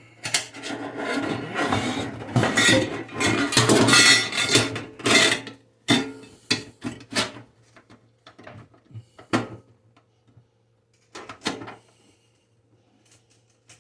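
Faucet parts and tools being handled during a kitchen faucet install. About six seconds of rubbing and scraping are followed by scattered clicks and knocks.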